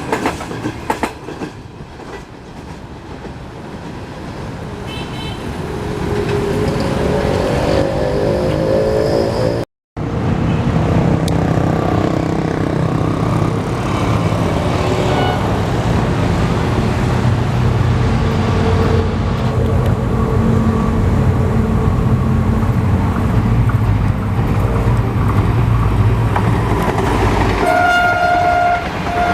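Diesel-electric locomotive running, its engine a loud steady drone with wheel noise on the rails, broken by a brief dropout about ten seconds in. Near the end the locomotive's horn sounds one steady blast of about a second and a half.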